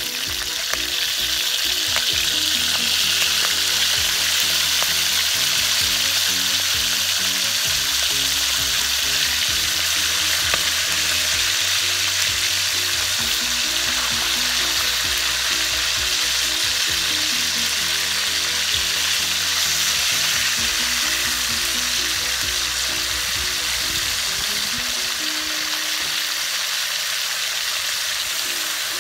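Soy-and-lemon marinated pork chops sizzling and frying in hot oil in a nonstick pan. The sizzle comes up loud right at the start as the meat goes in and then holds steady, while the chops are shifted about with a spatula.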